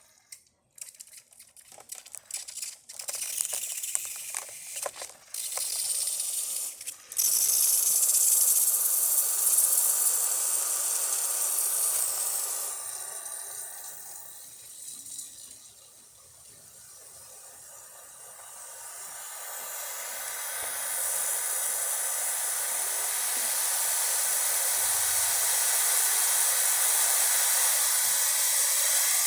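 Breville Barista espresso machine's steam wand purging: for the first several seconds it sputters and spits out leftover water in short irregular bursts, then it hisses steadily as steam comes through. The hiss weakens for a few seconds around the middle, then builds back to a strong, steady hiss as the boiler heats up.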